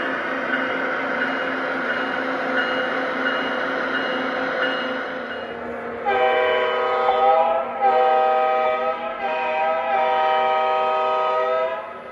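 Lionel Vision Line Genset model diesel locomotive's onboard sound system: a steady diesel engine sound, then about six seconds in the horn blows three times, the third blast the longest.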